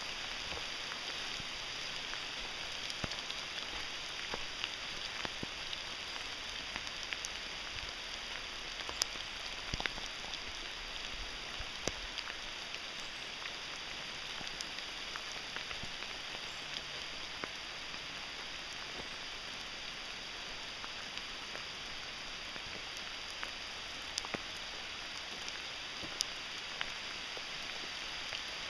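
Steady rain falling in a forest, with scattered sharp taps of single drops at irregular moments.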